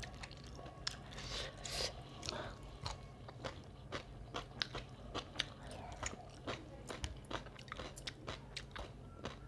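A person chewing a mouthful of rice and curry eaten by hand, with many short, wet mouth clicks and smacks, about two or three a second.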